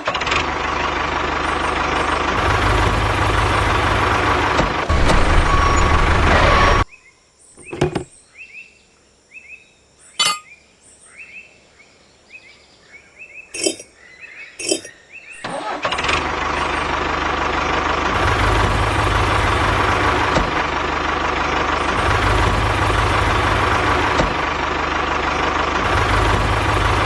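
A machine motor runs with a steady, noisy drone and a faint whine. It stops after about seven seconds, leaving a quiet gap with a few clicks and short high chirps, then starts running again at about sixteen seconds.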